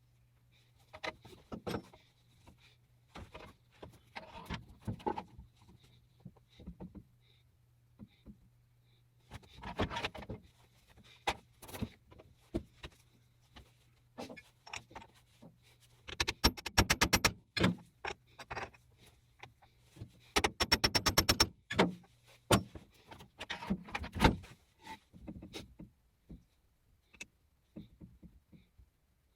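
Metal parts and tools being handled: irregular knocks and clinks, with two runs of rapid, evenly spaced clicking about two-thirds of the way through. A low steady hum underneath stops near the end.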